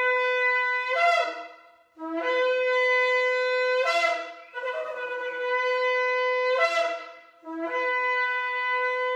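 Shofar sounded in long blasts: one ends about a second in, then three more of about two seconds each follow. Each blast opens on a lower note and jumps up to a steady higher one.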